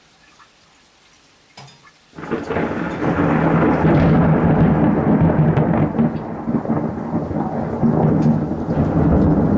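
Thunder: after a couple of quiet seconds with a few faint raindrop ticks, a deep, bassy rumble breaks in suddenly about two seconds in and rolls on loudly.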